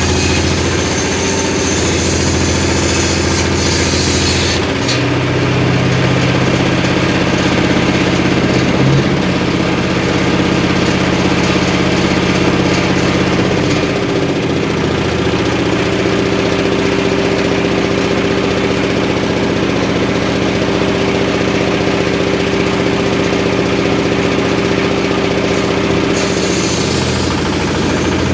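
Engine driving a homemade circular saw rig, running steadily. Its note changes about five seconds in, again around fourteen seconds, and once more near the end.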